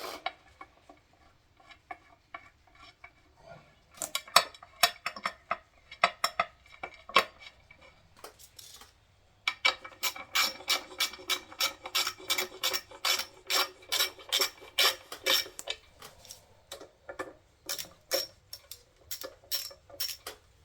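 Short-handled hand ratchet clicking as it runs bolts down on an engine's timing cover, in runs of quick clicks with pauses between, the longest steady run at about five clicks a second in the middle.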